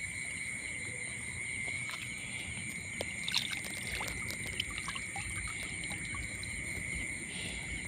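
Steady high-pitched insect chorus in two constant tones, with scattered small clicks and knocks over a low rumbling background.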